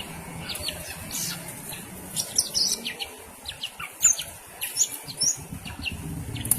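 Green leafbird (cucak ijo) calling in quick, sharp chirps and short whistles, busier and louder from about two seconds in.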